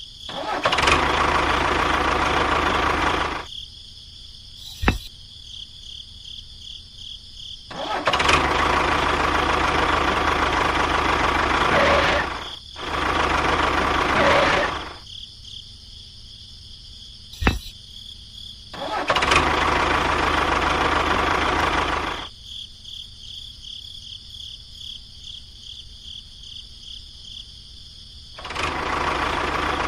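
A small motor running in repeated spurts of about three to four seconds, switched on and off about five times, with a sharp click twice in the pauses and a faint high hum throughout.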